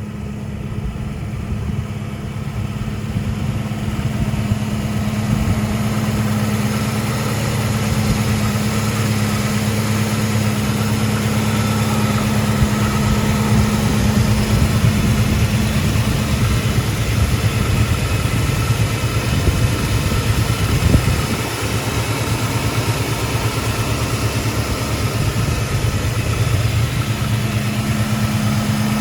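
Ford Mustang 5.0 L V8 engine idling steadily, with a brief swell in loudness about two-thirds of the way in before it settles back.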